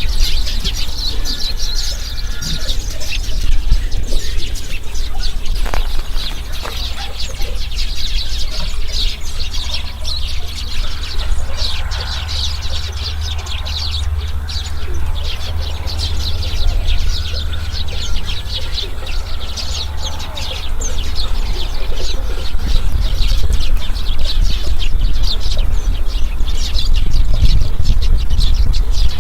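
Many small birds chirping at once in a dense, continuous chatter of quick high notes, over a steady low rumble.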